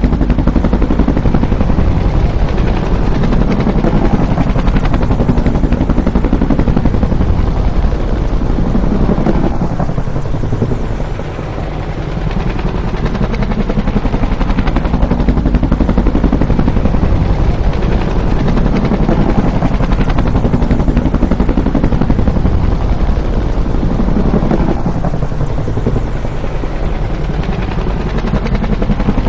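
Bell UH-1 "Huey" helicopter running loud, with a heavy, rapid rotor chop over the turbine noise. It eases off briefly about ten seconds in, then swells back up.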